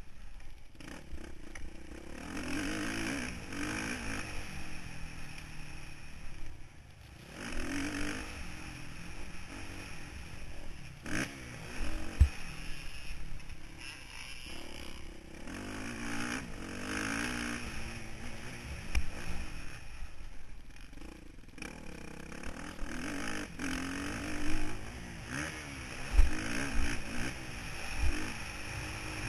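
Motocross bike engine heard from a camera mounted on the bike, revving up and dropping off again and again as the rider opens and closes the throttle, with a couple of brief lulls and a few sharp knocks.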